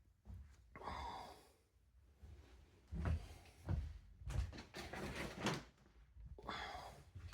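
Bedsheets rustling as they are handled during laundry, with several knocks and thumps about three to five seconds in.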